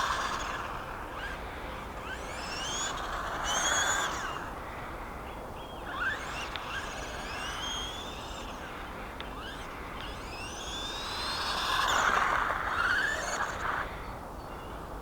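Brushed 370-size electric motor of a 1/18 RC short course truck whining up in pitch as the truck accelerates, in several bursts, with a rushing noise that swells with each burst. The loudest burst comes near the end.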